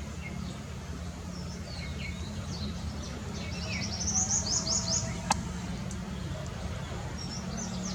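Small birds chirping and calling, with a quick run of about eight high chirps around four to five seconds in, over a steady low rumble. A single sharp click sounds just after five seconds in.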